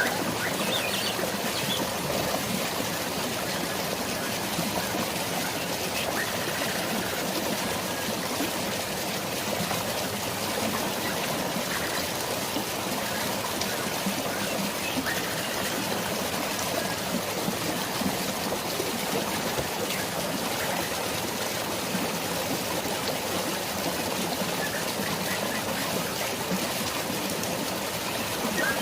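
Steady, even rush of flowing water and drizzling rain, like a forest stream or waterfall, with a few faint bird chirps near the start and again near the end.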